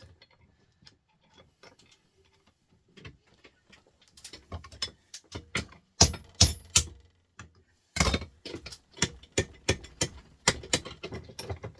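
Sharp clicks and knocks of a printer part being worked loose by hand during teardown. They are faint and sparse at first, then come several a second from about four seconds in, loudest around six and eight seconds in.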